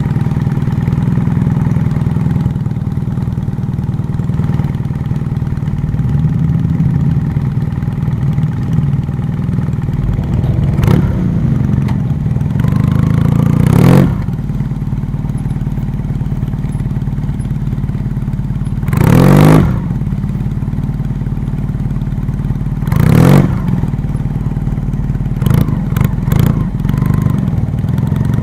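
A vehicle engine running steadily, broken by several short, loud, noisy bursts: one rising near the middle, a stronger one about two-thirds of the way in, and a quick cluster near the end.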